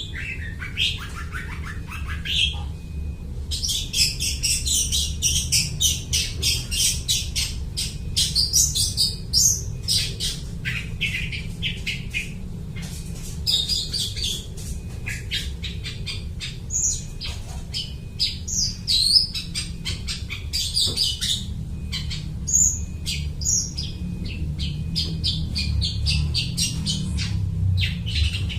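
Long-tailed shrike (cendet) singing a fast, scratchy chattering song made of mimicked calls of other birds. A dense run of notes starts about four seconds in and lasts several seconds, then breaks into shorter phrases. A steady low hum runs underneath.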